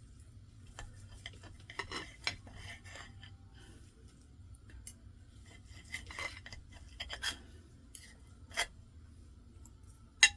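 Knife and fork clinking and scraping against a plate in short, scattered strokes, with one sharp clink near the end.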